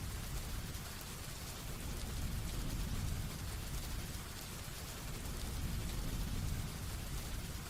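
Heavy rain falling steadily in an even hiss, with a low rumble underneath that swells and eases every couple of seconds.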